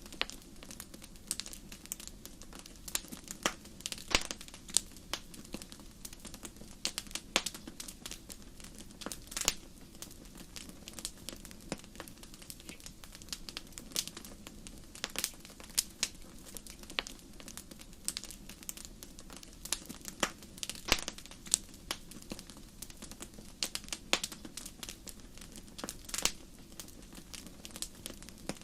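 Wood fire crackling in a fireplace: irregular sharp pops and snaps, a few louder ones scattered through, over a soft steady hiss of the flames.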